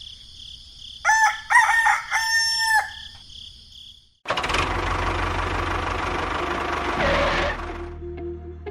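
A rooster crows about a second in, in several pitched segments ending on a long held note. After a brief silence, a loud, steady, noisy sound with a low hum runs for about three seconds.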